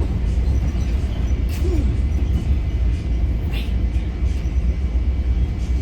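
Long Island Rail Road commuter train running, heard from inside the passenger car as a steady, loud low rumble.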